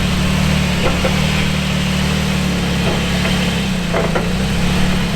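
Off-road truck engine running steadily at low revs while crawling an obstacle, with a few faint knocks about a second in and near four seconds.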